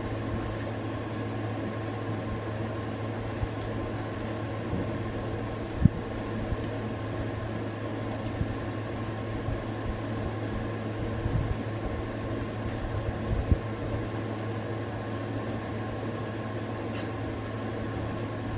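Steady mechanical hum, with a few short low thumps about six seconds in and again around eleven to thirteen seconds in.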